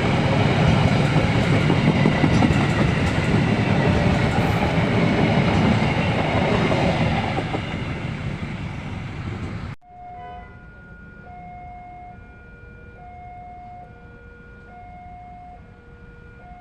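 A train passing close by: a loud, dense rumble and clatter of wheels on rails that eases after about seven seconds. It is cut off abruptly about ten seconds in and replaced by a quiet, simple electronic melody of single held notes.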